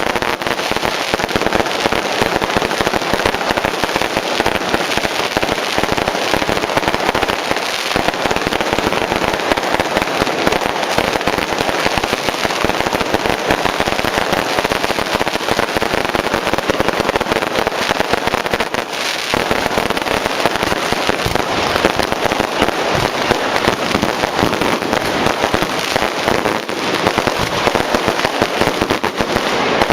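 Long string of firecrackers going off in a dense, continuous rapid crackle of pops, steady and loud, with a couple of brief dips in the firing.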